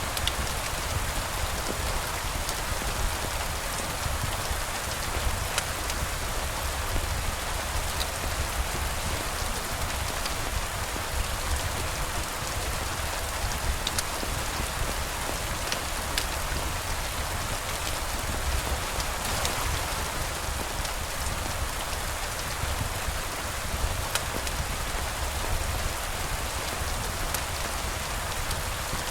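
Steady rain falling: an even hiss with scattered sharp drop ticks over a low rumble.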